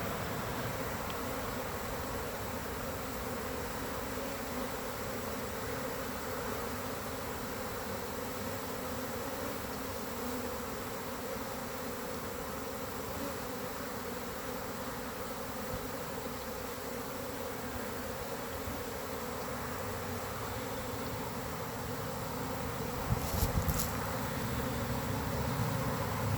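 Honey bee swarm buzzing steadily, the massed hum of many bees moving into a new hive body. A couple of brief knocks come near the end.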